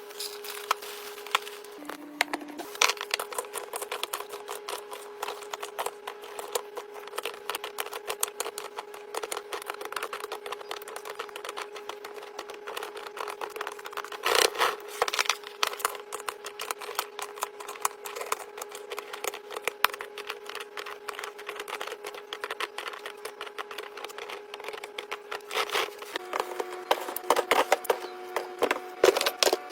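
Many quick clicks, knocks and clatters of containers and packages being set into a fridge during restocking, busiest around the middle, over a steady held tone that shifts pitch a few times.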